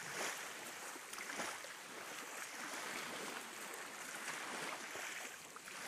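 Small waves lapping at a beach, a steady soft wash of water.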